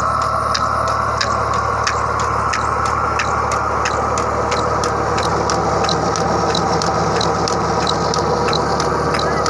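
Tractor engine running steadily under load, driving the water pump of a 500 ft borewell. Over it comes a sharp, regular tick about two to three times a second.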